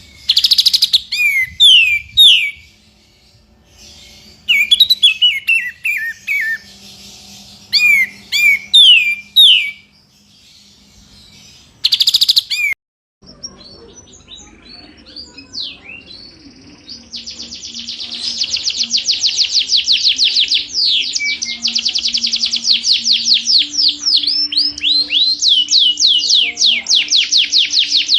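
Recorded songbird song: sharp whistled phrases with gaps between them, then, after a short break, a long, very fast trill of repeated sweeping notes of the rapid 'tembakan' kind that birdkeepers use as mastering material for white-rumped shamas.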